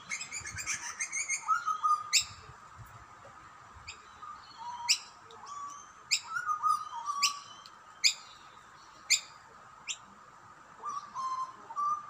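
Birds chirping: a busy flurry at first, then a run of short, sharp rising chirps about once a second, with softer, lower chirps in between.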